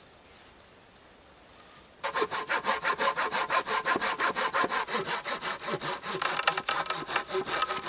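Hand saw cutting through wood. It starts about two seconds in with rapid, even back-and-forth strokes.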